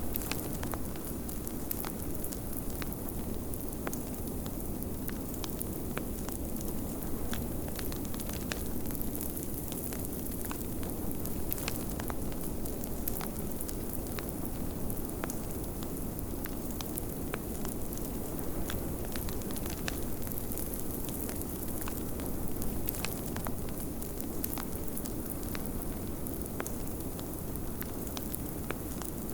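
Wood fire crackling, with frequent irregular pops and snaps, over a steady low rush of blizzard wind.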